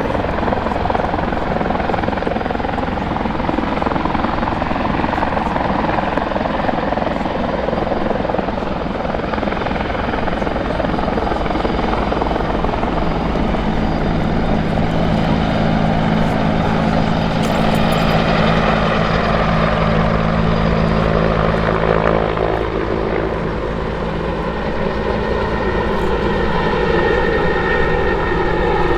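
RCAF CH-146 Griffon twin-turbine helicopter flying a display pass, a loud steady wash of rotor and turbine noise. About halfway through, a steady low hum joins it. Near the end, an engine tone slides down in pitch.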